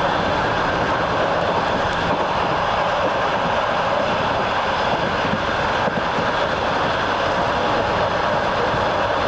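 Train running along the track, heard from aboard: a steady rumble and rush of wheels on rail, with a few faint clicks.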